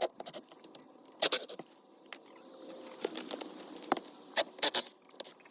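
Short bursts of scratchy rustling and scraping, several in a row, from old insulation being pulled and cleared out by hand.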